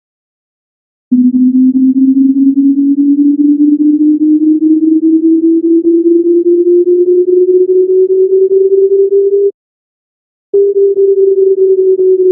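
Computer-generated single tone sliding slowly and evenly upward in pitch for about eight seconds: the linear function x turned into sound. After about a second of silence, a tone starts again at the higher pitch and begins to glide slowly downward, the negative linear function -x.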